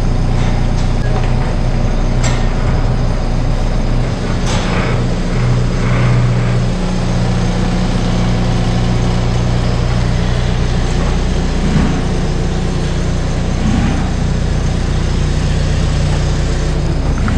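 A farm machine's engine running steadily, its pitch shifting slightly now and then, with a few short knocks.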